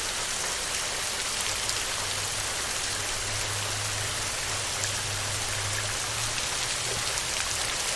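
Steady heavy rain drumming on a tin roof, dense drop impacts with fine ticks in the higher range. A low rumble sits underneath for a few seconds in the middle.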